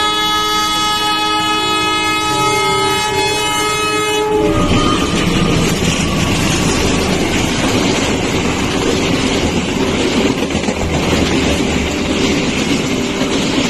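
Diesel train's horn held on one long blast that cuts off suddenly about four and a half seconds in, followed by the steady rumble and rattle of the passenger carriages running past close by.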